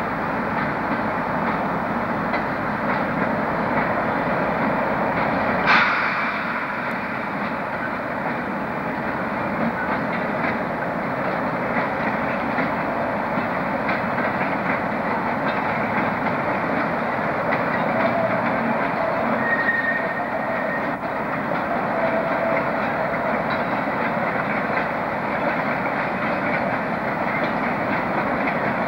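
Steady running noise of a train rolling along the rails, with some clickety-clack from the wheels. A single sharp click about six seconds in stands out.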